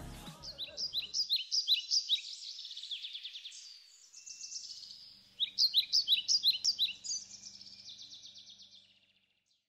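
Songbird singing: phrases of quick, repeated high chirping notes, with a brief pause before a louder phrase about halfway through, fading out near the end.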